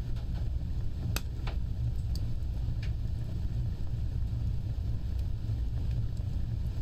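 Fire burning with a steady low roar and a few sharp crackles, most of them in the first three seconds.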